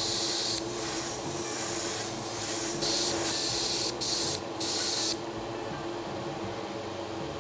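Paint being sprayed in loud hissing bursts, with two short breaks near the end of the spraying. A steady hum runs under the hiss and carries on for a few seconds after the spraying stops.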